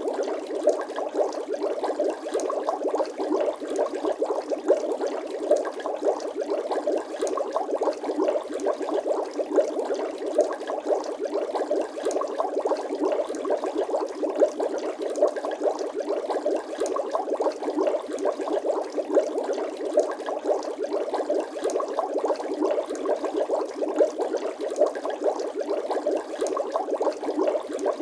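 Bubbling water sound effect: a steady, dense stream of small quick bubble pops with no deep low end, with a louder single pop standing out every second or so.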